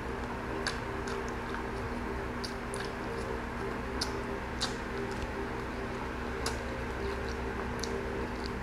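Close-miked chewing of fried meat, with scattered wet clicks and lip smacks as it is gnawed off the bone, over a steady low hum.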